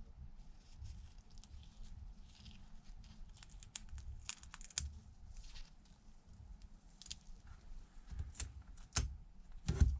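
Old adhesive being scraped and peeled off a small iPad home button bracket with a blade: faint, irregular scratches and ticks, with a louder knock near the end.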